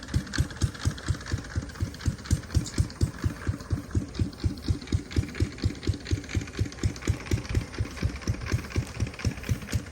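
Diesel engine of a Yanmar 725 tractor running at low revs with an even, heavy chug of about five to six beats a second.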